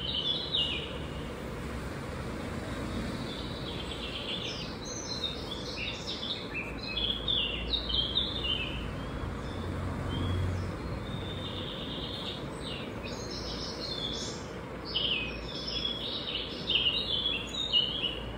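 Small birds chirping in quick runs of short notes, busiest about six to eight seconds in and again near the end, over a steady low background noise.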